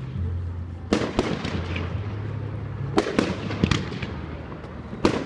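Fireworks going off: clusters of sharp bangs about a second in, around three seconds in and near the end, each followed by crackling.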